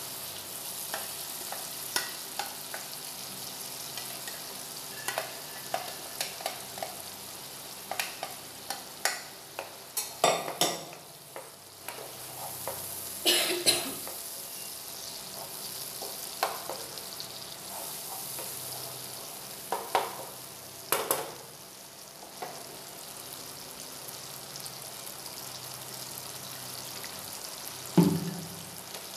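Tomato puree and onion masala sizzling as they fry in oil in a nonstick pan, while a wooden spatula knocks and scrapes against the pan in scattered strokes. One louder knock comes near the end.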